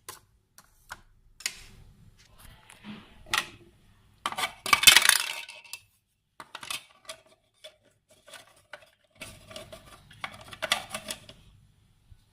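Whole spices (coriander seed, cumin, pomegranate seeds) being pounded and coarsely crushed with a mortar and pestle: irregular clinking knocks, with a denser, louder scraping stretch about four seconds in and another run of strikes near the end.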